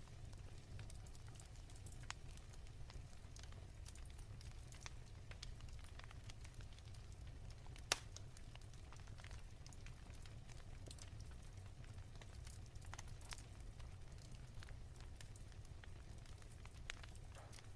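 Wood fire crackling softly in a fireplace: scattered small clicks and snaps over a low steady rumble, with one louder pop about eight seconds in.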